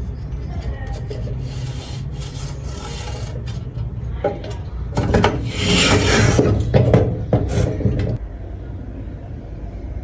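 Rough rasping, rubbing strokes over a steady low hum, loudest from about five to eight seconds in.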